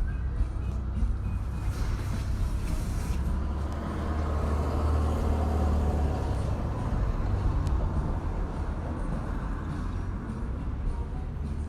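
A steady low engine rumble that grows louder for a few seconds in the middle, then settles back.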